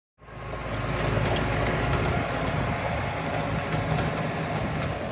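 Miniature-railway train at a station: a steady rumble with scattered clicks, cutting in suddenly, with a brief high-pitched squeal over the first second.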